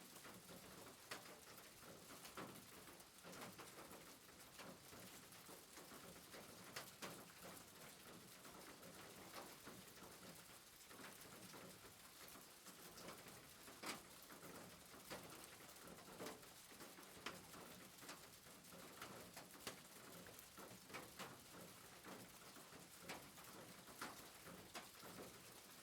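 Faint soft rain: a steady hiss with scattered irregular ticks.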